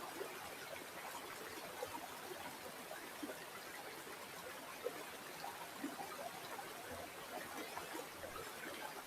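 River water flowing steadily, a continuous trickle with many small splashes scattered through it.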